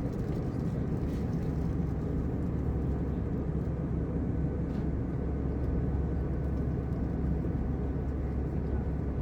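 Steady cabin noise of an Airbus A321 in flight: an even, low rumble of engines and airflow.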